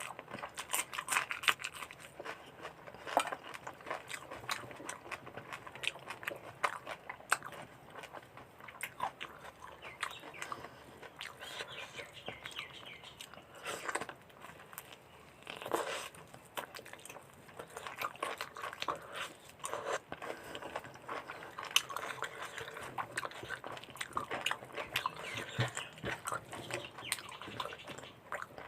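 Close-up chewing and biting of a person eating mutton curry with rice: irregular mouth clicks and chewing noises throughout.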